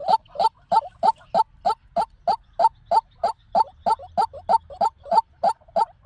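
White-breasted waterhen calling: an even run of short notes, about three a second, the lure call used to draw waterhens into traps.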